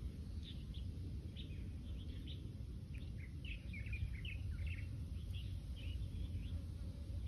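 Small birds chirping outdoors, a scatter of short high calls that come thickest about three to five seconds in, over a steady low rumble.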